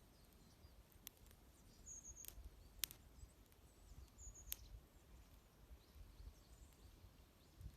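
Wood fire crackling faintly, with a few sharp pops, the loudest about three seconds in, while small birds give short, high chirps now and then.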